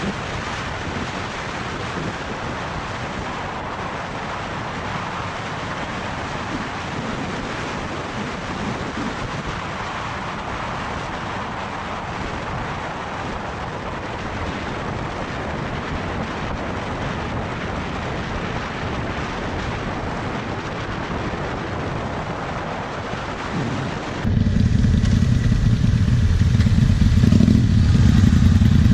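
Motorcycle riding, its engine under a steady rush of wind and road noise; about three-quarters of the way through the sound switches abruptly to a louder, deeper motorcycle engine.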